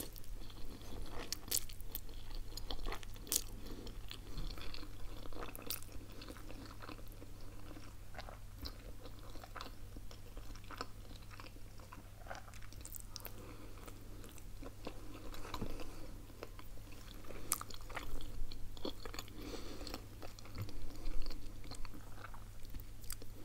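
A person chewing spaghetti carbonara and bites of ham-and-cheese pizza with the crust, many small wet mouth clicks and crunches following one another over a steady low hum. Near the end a fork clinks in the ceramic bowl as more pasta is twirled.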